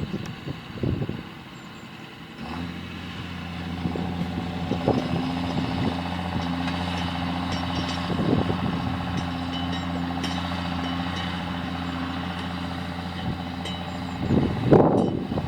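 John Deere tractor engine running at a steady pitch, coming up in level about two and a half seconds in and holding steady. Gusts of wind buffet the microphone at the start and again near the end.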